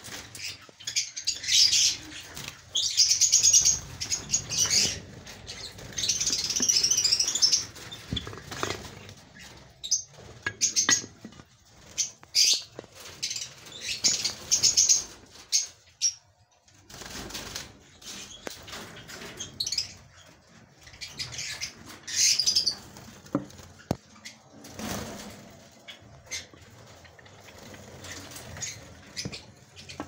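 Java sparrows chirping in bursts, with wing flutters and rustles in between.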